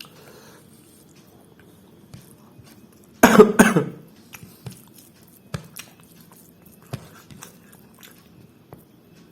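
A person coughing, two loud coughs in quick succession about three seconds in, followed by a scatter of small eating clicks and mouth sounds while chewing.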